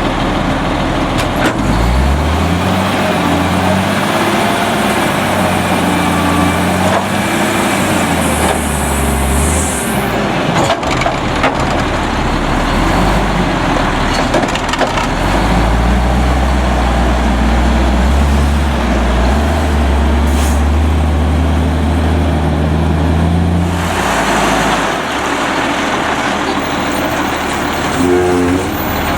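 Autocar front-load garbage truck's diesel engine revving up and down, held high for several seconds at a time, with scattered sharp cracks and a burst of air hiss near the end.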